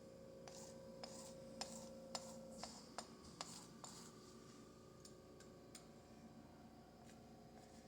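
Faint, irregular light taps and scrapes of a palette knife working acrylic paint on a canvas, several in the first four seconds and sparser after, over a faint steady hum.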